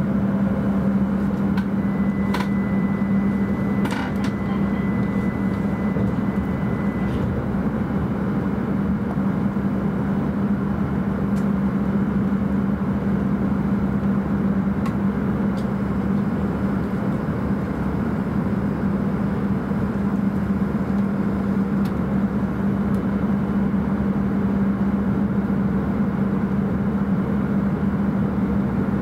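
Steady running noise heard inside an E5-series Shinkansen passenger car, with a strong low hum underneath. A couple of faint clicks come about two and four seconds in.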